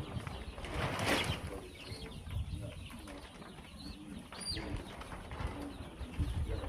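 Chickens clucking and murmuring with short, low calls, with a brief rustle about a second in and a short, high-pitched call just past the middle.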